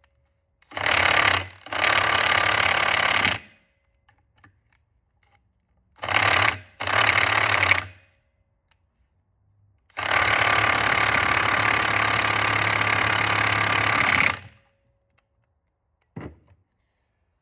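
Impact wrench hammering on stuck bolts in five bursts, the last one about four and a half seconds long, then a short click near the end.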